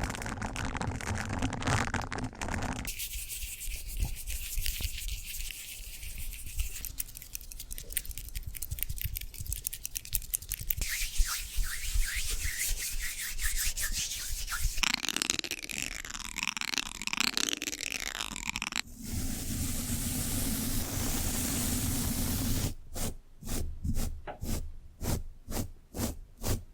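Close-up ASMR rubbing and scratching sounds that change texture several times: fine rapid scratchy strokes, then a coarser rubbing stretch and a steady hiss. Near the end they turn into rhythmic strokes at about two a second.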